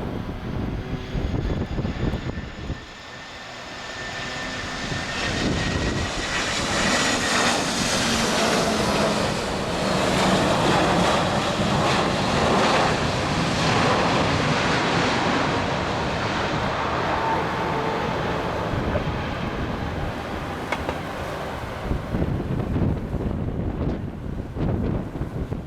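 TAP Portugal jet airliner passing close by on its landing approach: the engine whine builds, drops in pitch as the plane goes past, then gives way to a broad roar that slowly eases. Gusts of strong wind buffet the microphone at the start.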